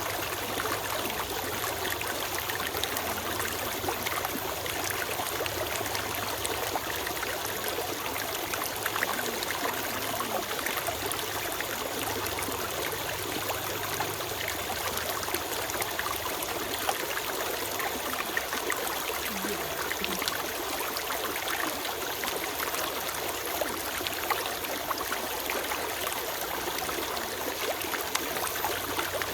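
Small forest stream flowing steadily over stones, a constant rushing and trickling babble of water.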